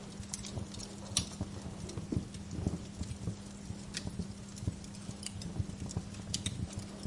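Wood fire in a fireplace crackling, with irregular sharp pops of varied strength over a low steady hum.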